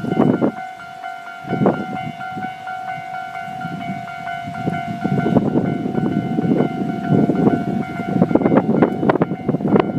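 Level-crossing warning alarm ringing steadily as a diesel train comes through the crossing. The train's rumble builds from about halfway, with sharp clacks of wheels over rail joints near the end.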